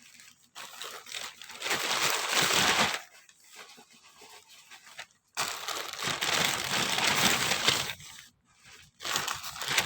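Plastic packaging crinkling and tearing as a parcel is opened by hand, in three bursts with short pauses between.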